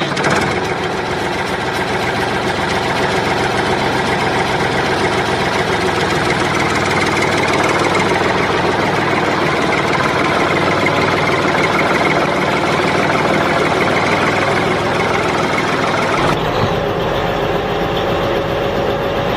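Vehicle engine sound running steadily at idle, changing about three-quarters of the way through as a different, steadier engine tone takes over.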